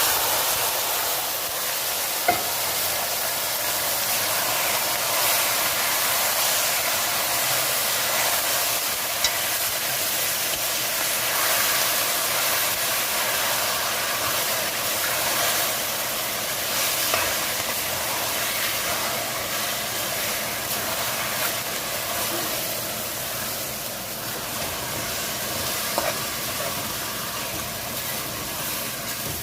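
Seasoned chicken sizzling in hot oil and browned sugar in a pot as it is stirred, a steady hiss with a few sharp knocks of utensil on pot.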